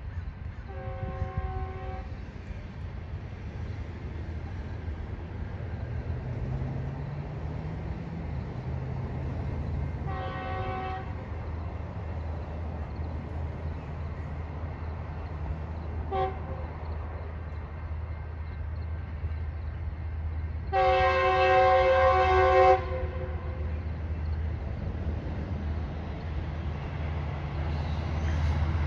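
Diesel locomotive's multi-note air horn sounding the grade-crossing pattern: long, long, short, long. The last blast is the loudest. Under it a steady low rumble of the approaching train grows louder toward the end.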